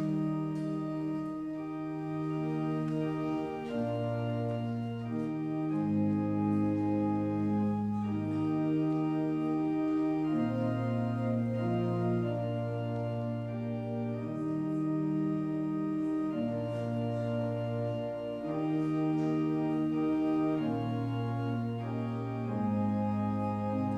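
Organ playing slow, sustained chords, each held a second or more, over a bass line that steps from note to note.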